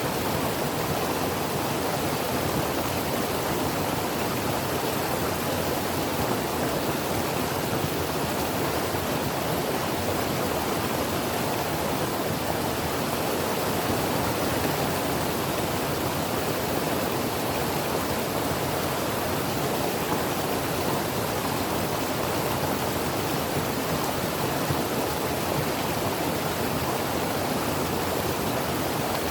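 Creek water flowing and rushing over rocks: a steady, even wash of noise with no breaks or changes.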